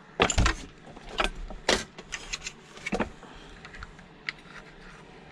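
Hand-tool work on a metal casing: a small screwdriver and metal parts clicking and clinking while a cover is being unscrewed. A few sharp knocks come in the first three seconds, then lighter scattered clicks.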